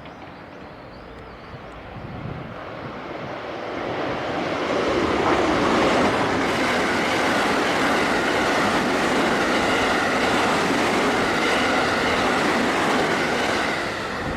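A 12-car JR Special Rapid Service electric train approaches and runs through the station without stopping, at high speed. It grows louder over the first few seconds, then gives a steady, loud rush of wheels on rail with some clickety-clack.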